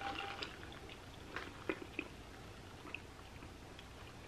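Faint, soft chewing with a few small wet mouth clicks, as tapioca pearls from a sip of mango bubble tea are chewed.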